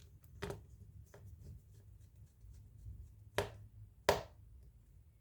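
Four sharp clicks and taps of a small precision screwdriver against tiny screws and a phone's frame, the loudest two close together near the end. The screwdriver's tip is worn, so it struggles to grip and tighten the screws.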